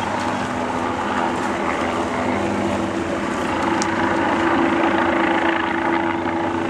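An engine running steadily, with a low droning hum of several tones.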